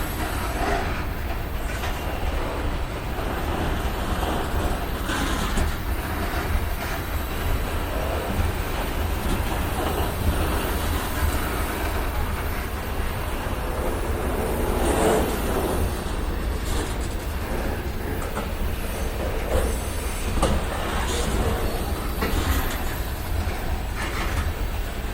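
BNSF freight train's cars rolling past: a steady low rumble from the wheels on the rails, broken by a few sharp clanks.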